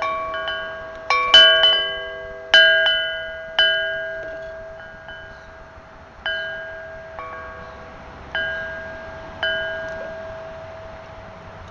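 Chimes struck at irregular moments, several ringing notes of fixed pitch that each die away slowly, some overlapping in quick clusters and others spaced seconds apart.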